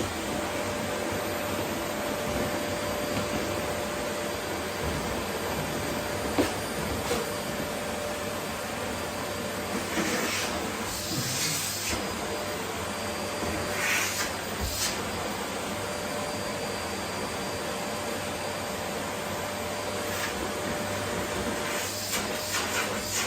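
Vacuum cleaner running steadily as its nozzle picks up rose petals from a wooden floor. Brief rushes of higher hiss and small clicks break through about ten seconds in, again around fourteen seconds, and near the end.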